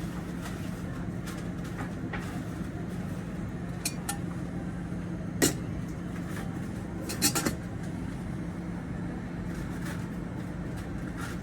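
Steady low hum of room ambience in a café, with sharp clinks of tableware, the loudest about five and a half seconds in and a quick cluster about seven seconds in.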